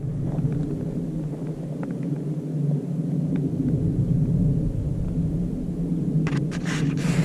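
Vehicle engine running with a steady low hum. A few sharp clicks or rattles come near the end.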